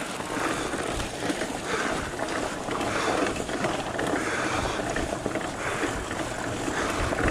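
Fat bike riding up a dirt trail: continuous, uneven rolling noise of the tyres and drivetrain.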